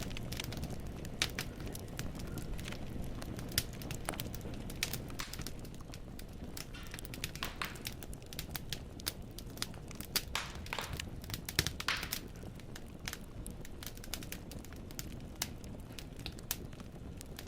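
Wood fire burning in a fireplace, logs crackling and popping in many sharp, irregular snaps over a steady low rumble of the flames.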